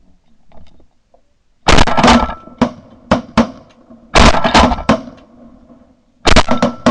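Shotgun blasts from several hunters firing at incoming geese, in four quick volleys of several shots each, the first coming a little under two seconds in.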